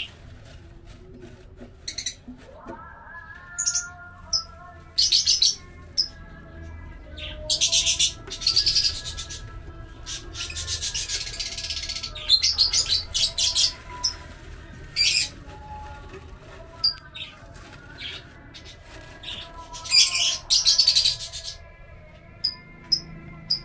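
Lovebirds chirping in repeated short, harsh, high bursts, with fainter held notes in between that shift in pitch.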